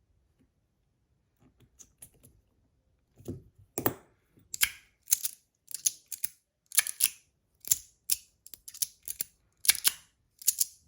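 Panda slider fidget being slid back and forth, snapping into place with sharp clicks about one or two times a second after a quiet start, as it is tested once freed up to slide better.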